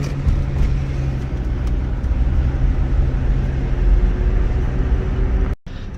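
Road and engine noise inside a moving car's cabin: a steady low rumble with a steady low hum. The sound cuts out for a moment near the end.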